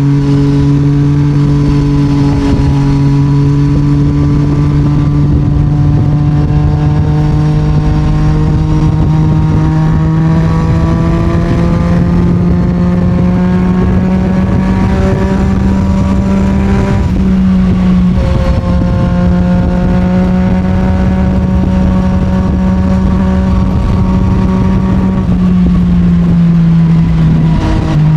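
Yamaha MT-09's three-cylinder CP3 engine through an Akrapovic full titanium exhaust, cruising under light throttle. Its note climbs slowly for most of the first half, shifts briefly about 17 seconds in, then holds steady and drops a little near the end.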